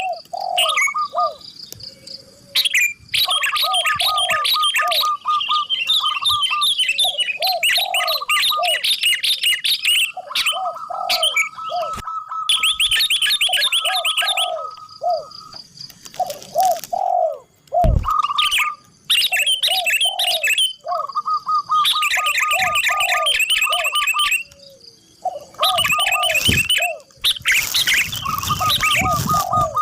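Zebra dove (perkutut) cooing in repeated phrases of short low notes, mixed with loud high chirping and trilling from small songbirds. A burst of hiss comes near the end.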